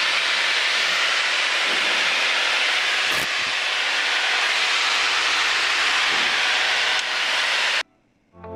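Steady rushing hiss of a Piper PA-28 light aircraft's cabin in flight: airflow and engine noise, with one brief click a few seconds in. It cuts off suddenly near the end, and music begins just after.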